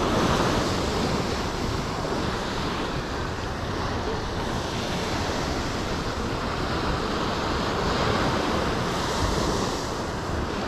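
Ocean surf washing on the beach in a steady rush, swelling at the start and again about nine seconds in, with wind buffeting the microphone.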